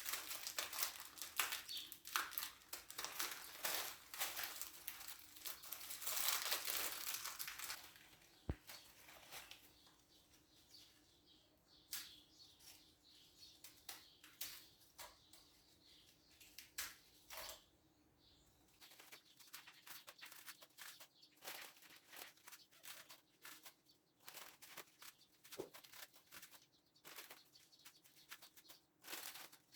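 Kitchen handling sounds from preparing food: a busy run of rustling and quick clicks for about the first eight seconds, then scattered taps and clicks.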